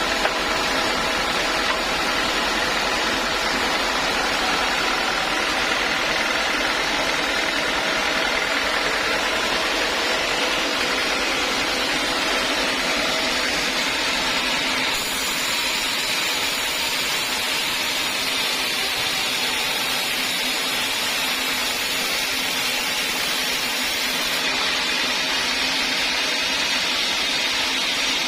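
Sawmill machinery running steadily, a motor-driven saw with an even hum of several steady tones over a noisy hiss. The sound brightens a little about halfway through.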